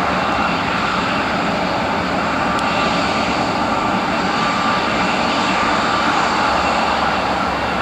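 Airbus A320's twin jet engines running at taxi power: a steady jet hiss with a faint, even whine.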